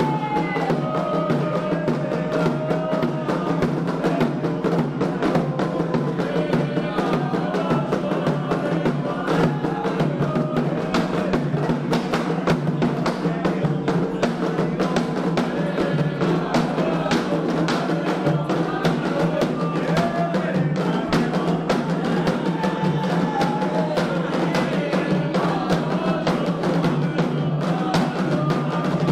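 Candomblé ritual music: atabaque hand drums played in a fast, steady rhythm, with voices singing over them.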